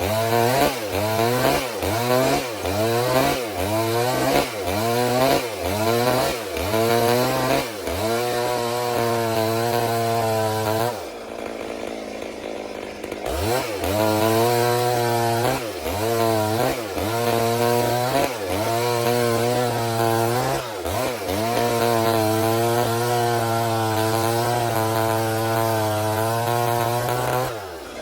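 Stihl MS 382 two-stroke chainsaw ripping a log lengthwise, its engine speed dipping and recovering over and over as it bogs under the load of the cut, with stretches held at a steady pitch. About eleven seconds in it eases off for a couple of seconds, then cuts on again.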